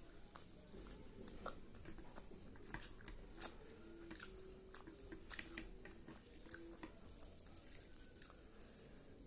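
Faint sounds of a person chewing and biting chicken and rice: scattered small wet clicks and smacks of the mouth.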